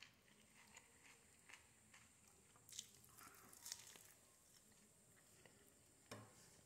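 Faint biting and chewing of a piece of fried chicken, with soft scattered mouth clicks and two sharper crunches about three seconds in.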